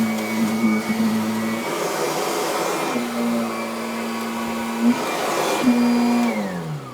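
Kirby Avalir upright vacuum cleaner running over carpet, a steady motor whine with its low hum dropping out and coming back as it is pushed along. About six seconds in it is switched off and the pitch falls as the motor winds down.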